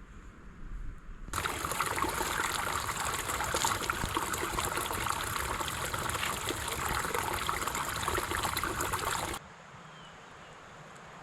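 Running water of a mountain stream, a steady rushing and splashing that cuts in suddenly about a second in and cuts off just as suddenly near the end, leaving faint outdoor background.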